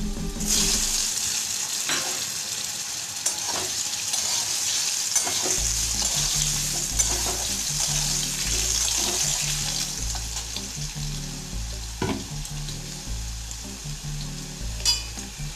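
Cubed potatoes sizzling steadily as they fry in hot mustard oil in a metal kadai, the sizzle rising about half a second in. A metal spatula stirs them, with a few sharp clicks against the pan.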